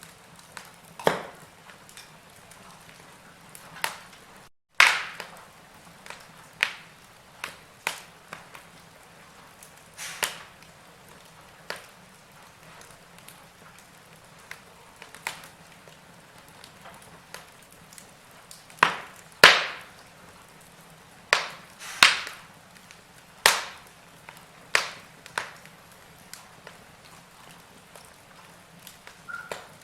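Log fire crackling: irregular sharp pops and snaps over a soft hiss of burning wood, loudest in a cluster of pops around twenty seconds in.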